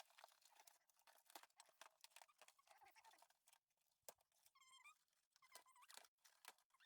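Near silence, with faint scattered clicks and a brief faint warbling squeak about four and a half seconds in.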